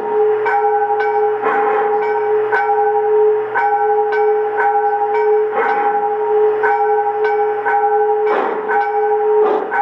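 Locomotive bell from an MTH Proto-Sound model engine's sound system ringing steadily, a strike about twice a second, with a few louder noisy bursts laid over it.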